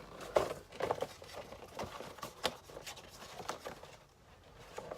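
Boxed toy accessory packs being handled: irregular light knocks, taps and rustles of cardboard and plastic packaging, thinning out near the end.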